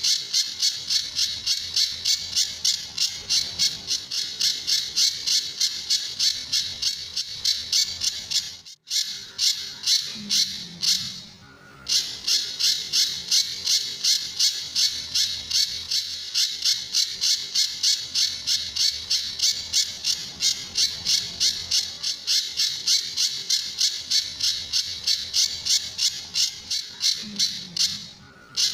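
Pijantur songbird calling in a fast, even series of harsh, rasping notes, about three a second, broken by brief pauses near the middle and near the end. This is the 'besetan' rasping call that bird keepers play as a tutor song.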